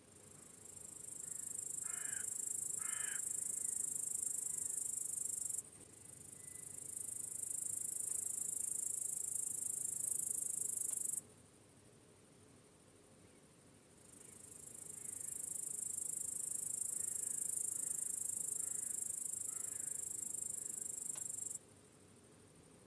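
Crickets trilling in long, high-pitched bouts that swell in over a second or two and cut off abruptly, three times. Two short bird calls come about two seconds in.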